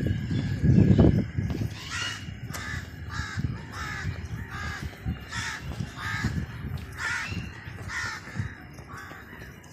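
A bird repeatedly giving short harsh cawing calls, about a dozen in an even series roughly two a second, after a low rumbling noise in the first second or so.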